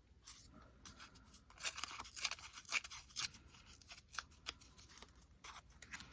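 Paper being handled and torn by hand: faint, irregular crackles and rustles, busiest a second or two in.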